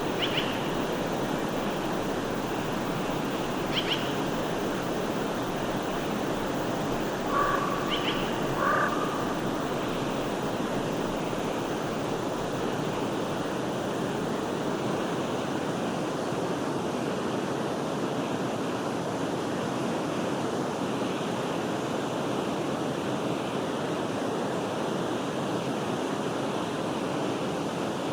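Forest stream flowing steadily, a continuous wash of running water, with a few short bird calls in the first nine seconds.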